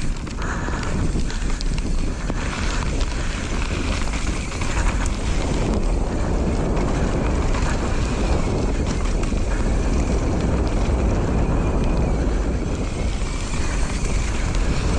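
Wind rushing over the microphone while a mountain bike rolls steadily down a dirt trail, with tyre and trail rumble underneath.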